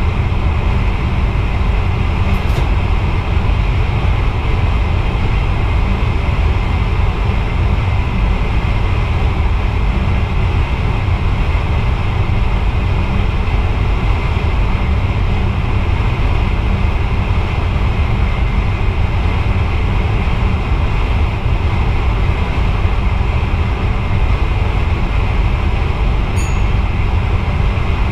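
Steady rumble of a VIRM double-deck electric train running along the track, heard inside the driver's cab. There is a faint tick a couple of seconds in and another near the end.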